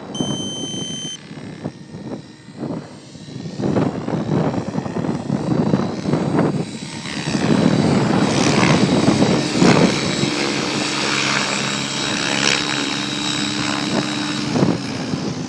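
Align T-Rex 700E electric RC helicopter flying, its rotor blades and motor whirring, with gusts of wind buffeting the microphone. The whir grows louder about halfway through and settles into a steady hum with several tones near the end. A short high beep sounds at the very start.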